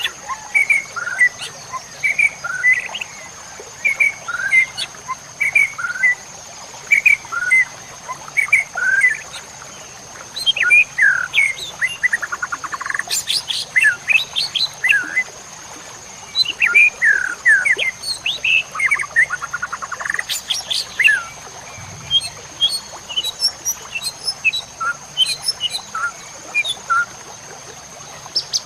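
White-rumped shama (murai batu) singing a long, varied run of short whistled notes and glides, broken twice by a rapid buzzy rattle.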